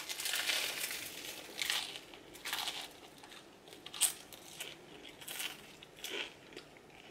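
A person biting into a salad-filled cheeseburger with a loud crunch at the start, then chewing it with crunches about once a second.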